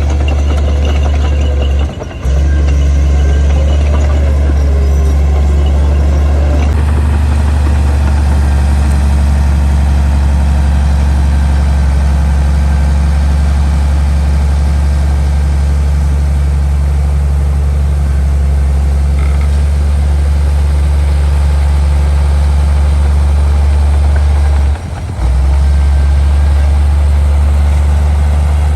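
Heavy diesel engine of earthmoving machinery running steadily with a deep, loud drone. The sound drops out briefly twice, about two seconds in and near the end.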